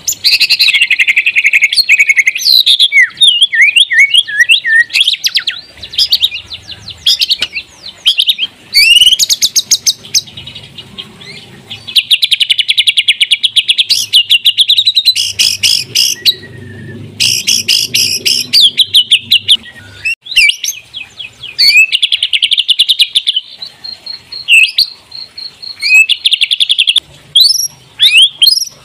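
White-rumped shama (murai batu) singing loudly and almost without a break. Varied whistled phrases alternate with fast rattling trills and quick rising sweeps, with only brief pauses between bursts.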